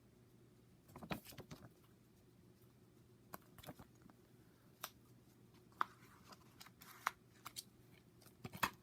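A DVD's paper booklet being handled and its pages turned: soft rustles about a second in, then a scatter of small sharp clicks and taps, coming closer together near the end.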